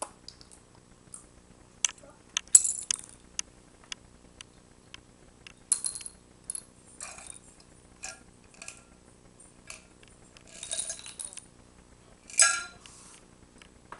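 Small hard objects clicking and clinking together in scattered, irregular taps, the sharpest about two and a half seconds in, with a few short rustling bursts between them.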